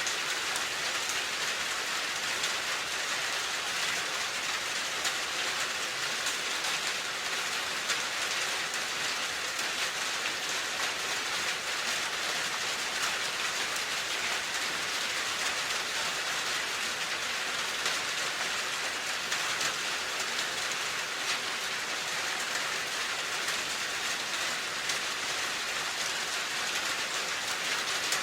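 Steady, gentle rain falling: an even hiss with a fine patter of drops.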